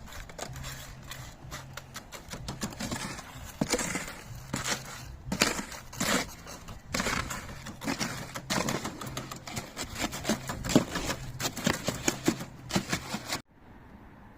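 Hand tools scraping and knocking in wet concrete as it is placed and worked over grasscrete formers, in quick irregular scrapes and clicks that stop abruptly near the end.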